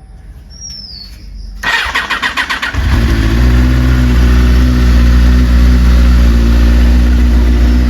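Benelli 600i's inline-four engine on its stock exhaust being started: the electric starter cranks for about a second, then the engine catches and settles into a steady idle.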